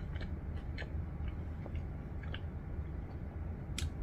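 Close-up eating sounds of crispy fried chicken: soft scattered mouth clicks of chewing, with a sharper crunch of a bite near the end, over a low steady hum.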